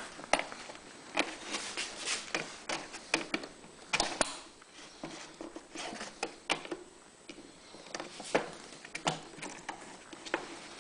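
Hands working small hose and plastic parts: irregular light clicks, taps and rustling, with no engine running.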